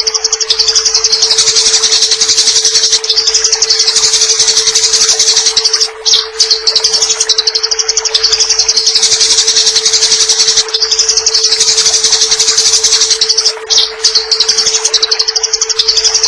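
Eurasian tree sparrows giving rapid, harsh chattering fight calls in long runs broken by brief pauses every few seconds. Underneath are a steady low hum and a layer of water sound.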